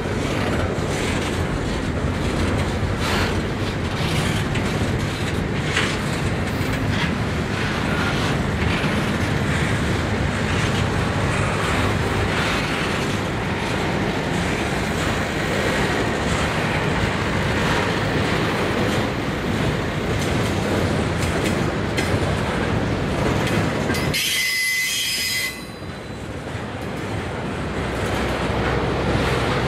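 Double-stack intermodal freight train rolling past: a steady rumble of steel wheels on rail with repeated clicks as the wheels cross rail joints. Near the end a short high wheel squeal cuts through, and the rumble briefly dips.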